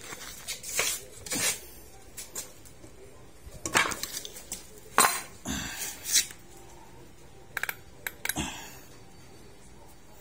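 Metal clinks and scrapes of a spark plug wrench being handled and fitted, a string of irregular knocks with the loudest ones near the middle.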